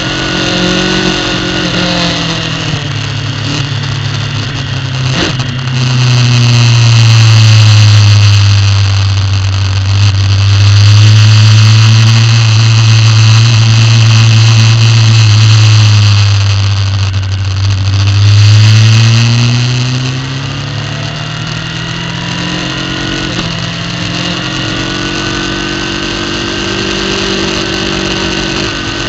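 Superbike engine heard on board, running at fairly low revs: its pitch eases down over the first few seconds, holds low and steady for about twelve seconds, then climbs again and settles a little higher near the end.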